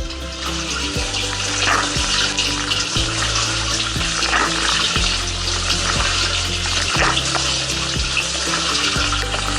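Water jets from a Bosch SMS24AW01R dishwasher's spray arms splashing over the dishes and the inside of the tub during a rinse cycle, heard from inside the machine as a steady hissing spray. Background music with a steady beat plays underneath.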